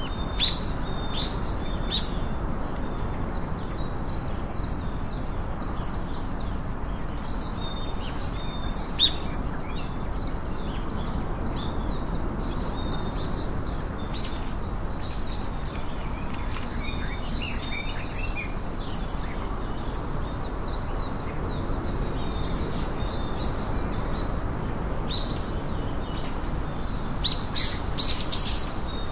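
Birds chirping: many short, high chirps and calls throughout, with a louder cluster near the end, over a steady low background noise.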